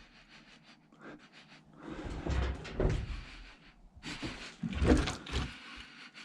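Handling noise: a row of light clicks, then rustling and scraping with a few dull knocks.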